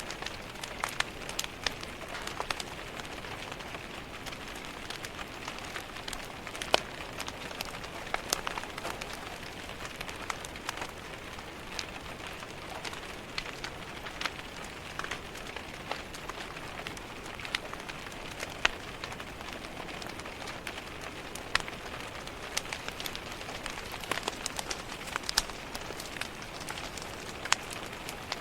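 Steady rain pattering on a window, mixed with the irregular pops and crackles of a wood fire in a fireplace.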